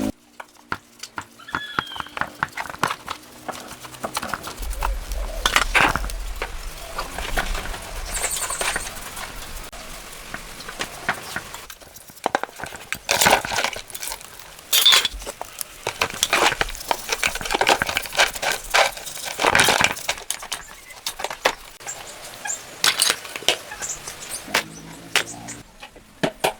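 Irregular metallic clinks, taps and knocks of tools and metal parts being handled, with some scraping.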